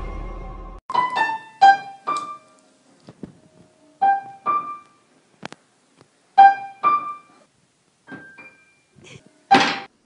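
Piano notes sounded one or two at a time at irregular, unmusical intervals, as a cat steps on the keys. The loudest note comes near the end.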